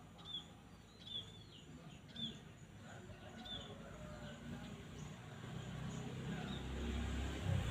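A small bird chirping: short downward-slurred calls, about one a second over the first few seconds, then dying away. A low rumble grows steadily louder through the second half.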